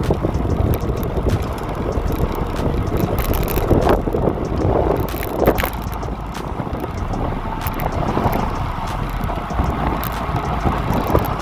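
Hybrid bicycle being ridden, heard from a phone clamped to the handlebars: wind rushing over the microphone and tyre rumble on the road, with scattered small clicks and knocks from the bike and mount over bumps.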